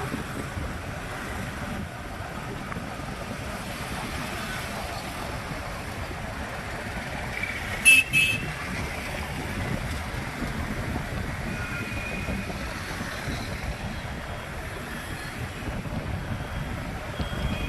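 Steady road and traffic noise heard from a moving motorbike, with a vehicle horn honking twice in quick succession about eight seconds in.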